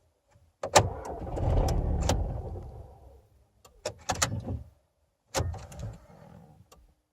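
VW Passat BMM 2.0 TDI diesel engine being cranked on the starter in three short attempts, each starting sharply and dying away, without the engine catching: a hard start.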